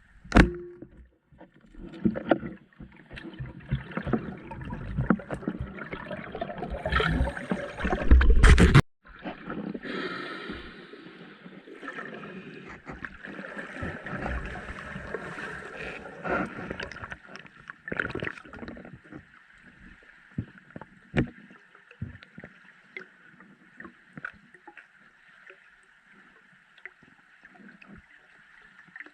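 Water sloshing and splashing with irregular knocks, loudest and busiest over the first nine seconds, then settling into a steady hiss with occasional clicks.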